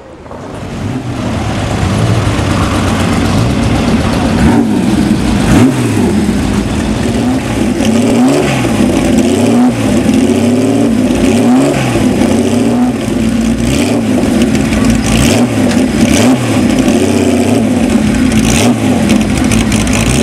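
Porsche 914 rally car's engine being revved while parked: repeated blips of the throttle, the revs rising and falling every second or two, loud through its twin exhausts.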